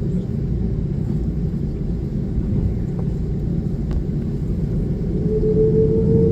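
Steady low rumble heard inside the cabin of an Airbus A330-300 airliner. About five seconds in, a single engine tone comes in and slowly rises in pitch as the level climbs: the engines spooling up.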